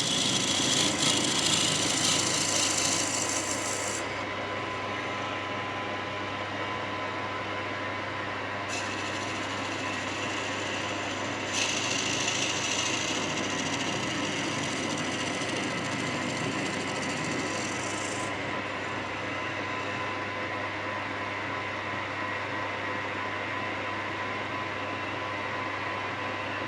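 A machine motor running steadily with a constant whine while a tool scrapes the turning wood of the cue's ebony dowel plug in spells. The hissing scrape is strong for the first few seconds, then comes again from about nine to eighteen seconds in.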